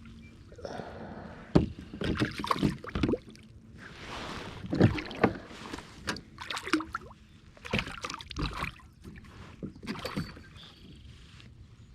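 Water splashing and irregular knocks and clatter on a kayak as a hooked northern pike is brought in and handled.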